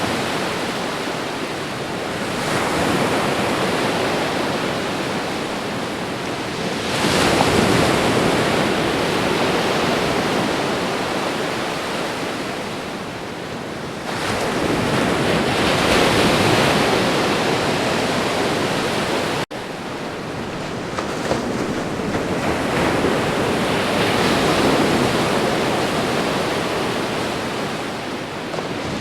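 Ocean surf: waves breaking and washing in, with the roar swelling and ebbing every five to seven seconds. There is a momentary gap in the sound about two-thirds of the way in.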